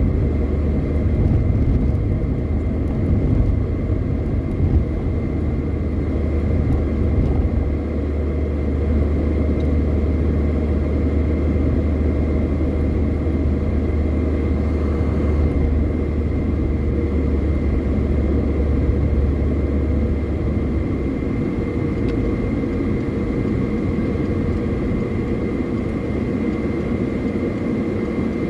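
Car driving on the highway, heard from inside the cabin: a steady drone of engine and road noise. The deepest part of the drone eases off about two-thirds of the way through.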